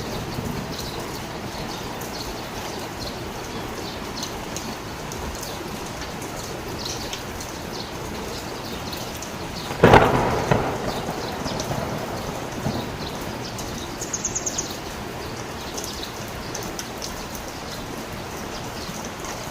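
Heavy rain falling steadily, with a sharp thunderclap about ten seconds in that rumbles away over a couple of seconds. A brief high trill sounds about four seconds later.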